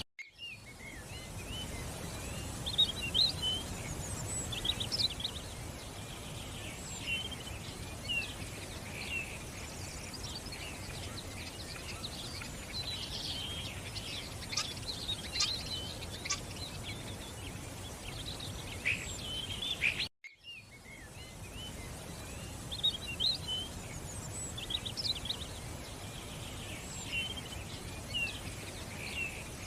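Many birds chirping and calling in short, overlapping phrases over a steady background noise. The sound cuts out briefly at the start and again about twenty seconds in, where the sequence seems to begin again.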